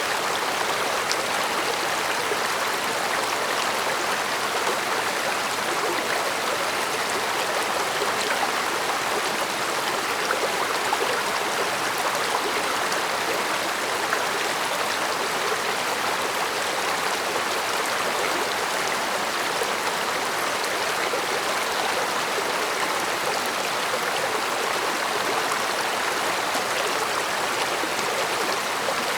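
Mountain stream flowing steadily over rocks, an even rushing babble with small splashes and no change in level.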